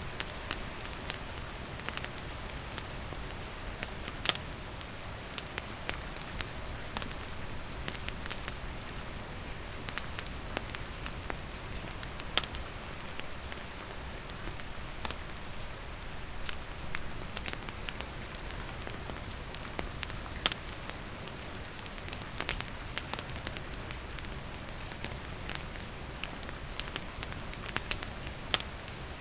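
Wood fire crackling with irregular sharp pops over a steady hiss of falling rain.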